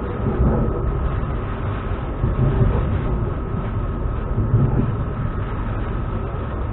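Inside a suburban electric train running along the line: a continuous low rumble of the carriage and wheels, with a steady high whine over it.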